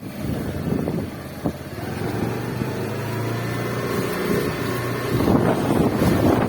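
Motorcycle engine running steadily during a ride, with a short knock about a second and a half in and rushing wind noise on the microphone growing louder about five seconds in.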